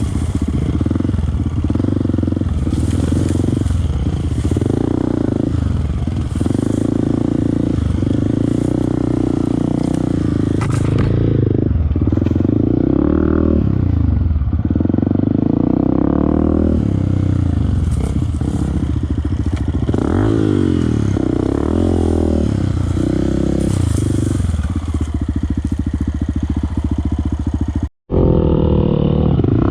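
Off-road motorcycle engine revving up and down repeatedly while riding, its pitch rising and falling over and over. The sound cuts out for an instant near the end.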